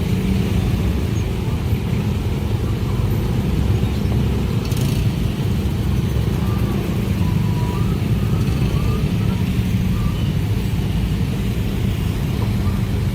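Train running past, a steady low rumble.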